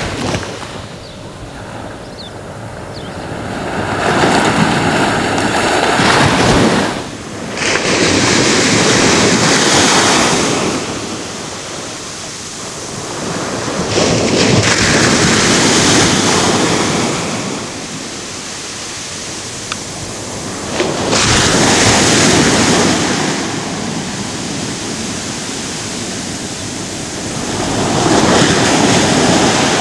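Ocean waves breaking and washing in, each surge rising to a loud rush and fading, about one every six to seven seconds.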